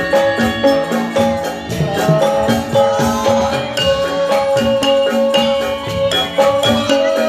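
Javanese gamelan music accompanying a jathilan performance: struck metal keyed instruments ring out a steady interlocking pattern of notes, over drums and jingling percussion.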